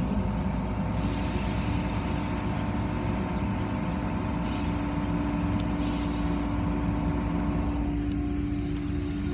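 Car wash machinery running steadily, a continuous mechanical noise with a steady hum that sets in about a second in, and a few brief hissing swells.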